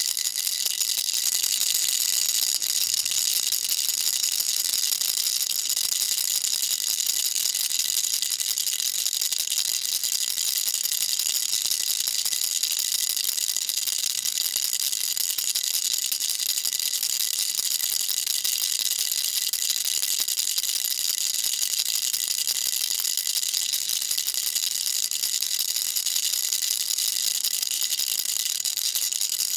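Baby rattle shaken continuously: a dense, even, high-pitched rattle of small beads with no pauses.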